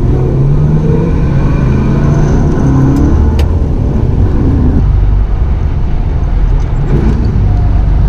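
Car engine running loudly, its note rising a little over the first three seconds and its sound changing about five seconds in.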